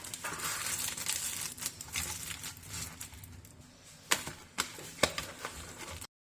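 Rustling and crinkling of kitchen handling, as of a wrapper or paper being handled, then three sharp taps about half a second apart. The sound cuts off abruptly near the end.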